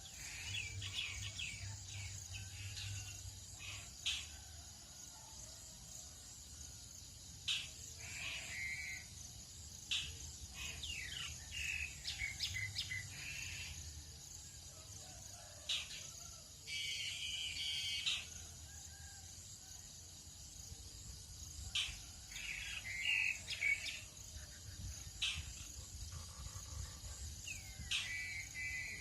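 Tropical dawn chorus: birds singing in short chirping phrases that come every few seconds, over a steady high-pitched drone of insects, with a few sharp clicks scattered through.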